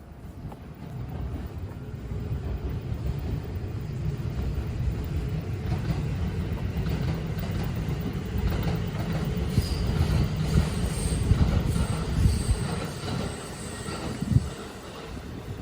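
Train passing: a low rumble that builds over the first couple of seconds, holds for about ten seconds with a faint high wheel squeal around the middle, then dies away near the end.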